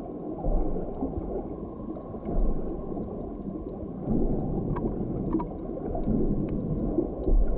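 Muffled underwater ambience: dense low bubbling and gurgling water, with a few soft low thumps and a couple of faint clicks.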